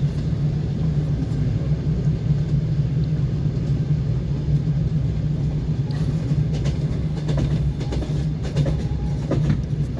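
Passenger train wheels running on the rails: a steady low rumble, with a run of sharp clicks in the second half.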